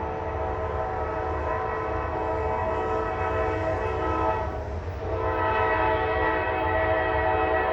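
Freight locomotive's air horn sounding a steady multi-note chord in a long blast, which breaks off briefly about four and a half seconds in and comes back louder. A low engine rumble runs underneath.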